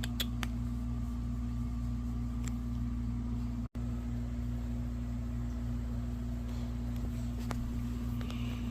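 A steady low mechanical hum, with a few faint clicks near the start; the sound cuts out for an instant a little over a third of the way in.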